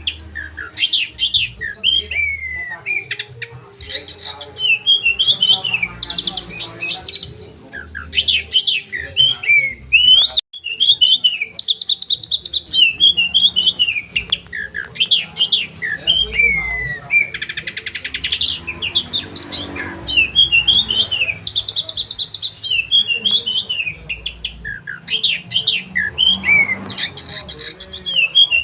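Oriental magpie-robin (kacer) singing non-stop: a loud, rapid, varied song of sharp whistled notes, falling slurs and fast chattering runs.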